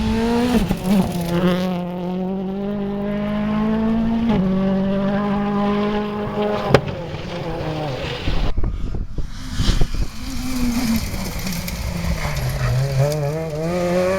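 Rally car engine at high revs, the pitch stepping down and up with gear changes, with a sharp crack about seven seconds in and the revs climbing again near the end.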